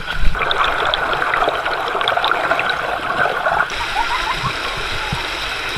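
River water rushing and splashing over rocks, with a steady rushing sound throughout. A couple of low thumps come right at the start, and the rushing changes and softens a little about three and a half seconds in.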